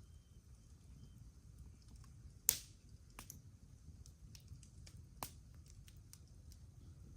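Wood campfire crackling: scattered sharp pops and snaps over a low murmur, the loudest pop about two and a half seconds in and more near three and five seconds in.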